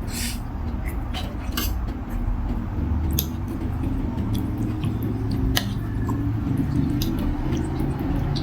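Close-up eating sounds of noodle soup: continuous chewing with a low, wet rumble, and scattered sharp clicks of spoon or chopsticks against the bowl.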